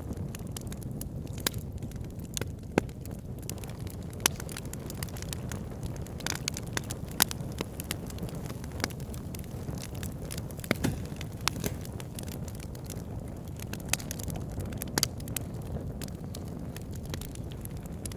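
Wood fire burning in a fireplace, crackling with irregular sharp pops and snaps over the steady low rumble of the flames.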